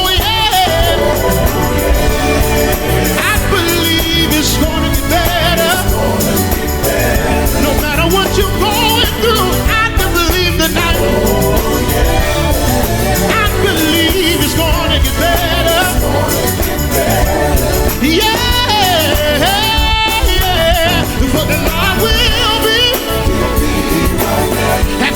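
Live gospel singing with band accompaniment: voices slide and waver in melismatic runs over a heavy, steady bass.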